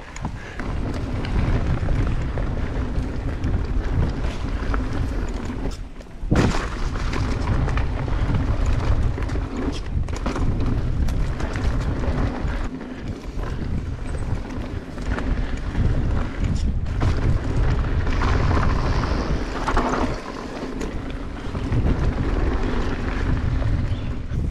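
Wind buffeting the microphone of a camera on a mountain bike ridden fast down a dirt trail, over the rumble of the tyres, with occasional knocks from the bike over bumps, a sharp one about six seconds in.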